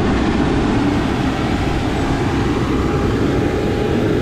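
Steady low rumble of a moving vehicle, with a faint constant whine on top.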